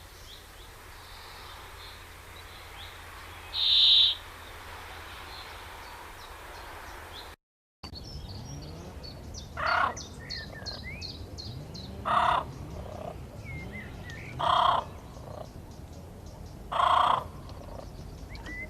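Bird calls from two recordings: first a single high call about four seconds in, then, after a brief break, a lower call repeated about every two and a half seconds with small chirps in between.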